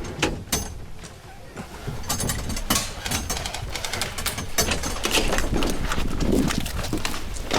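Irregular knocks and clicks over a steady low rumble.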